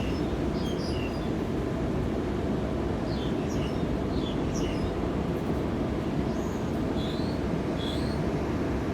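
Small birds chirping in short, high calls that come in scattered clusters, over a steady low rumble of background noise.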